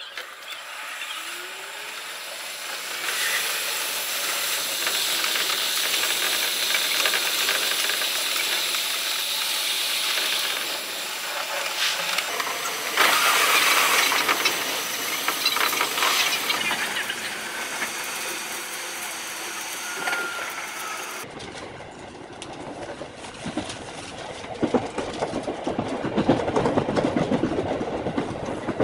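Seibu Shinjuku Line electric train running, heard from the driver's cab as a steady hiss. About two-thirds of the way through the sound changes abruptly to a duller, denser clatter of wheels over rail joints and points.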